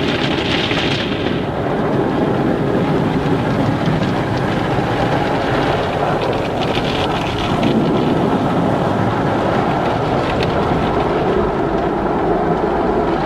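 Car wash in operation: a steady, dense noise of machinery and water, with brief hissing surges near the start and about halfway through.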